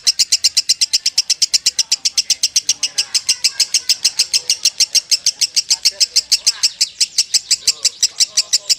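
Lovebird singing a long unbroken 'ngekek' trill, the 'konslet' style prized in contest lovebirds. It is a fast, even run of high chattering notes, about eight a second, that never pauses.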